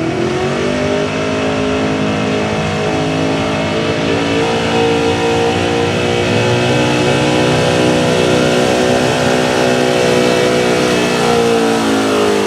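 Gasoline LS V8 in a street-class 4x4 pickup running at high revs under load while pulling a sled. The engine note climbs in the first second, then holds high and steady.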